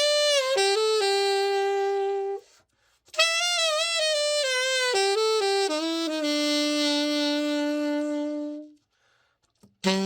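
Conn 28M alto saxophone played solo after a full overhaul, a play-test of the repaired horn: two slow melodic phrases, each settling onto a long held low note, with a short pause between them.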